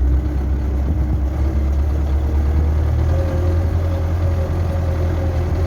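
Tractor engine running steadily at constant speed, a low even drone.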